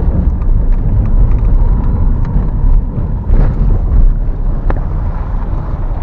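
Car driving along: a steady low rumble of tyres and engine, with a few sharp knocks and rattles.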